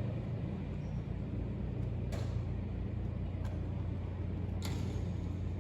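A Van's RV-12 light sport aircraft's four-cylinder Rotax engine running at a low, steady idle, heard from the cockpit, with a few sharp clicks.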